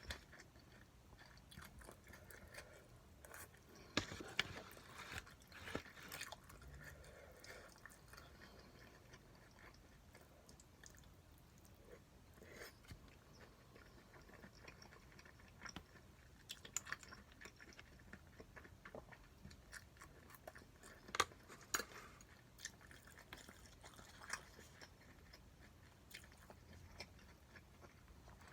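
A person chewing food, faint, with scattered sharp clicks; the loudest come about four seconds in and about twenty-one seconds in.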